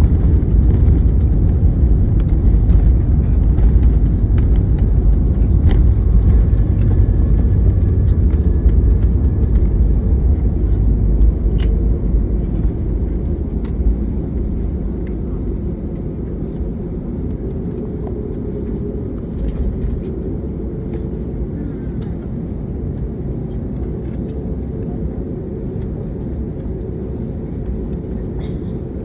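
Airbus A321neo cabin noise during landing: a loud, steady low rumble that eases to a lower level about halfway through.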